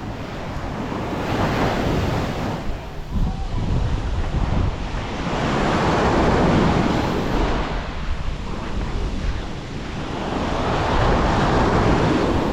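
Sea waves breaking and washing up the shore, swelling about every five seconds, with wind buffeting the microphone underneath.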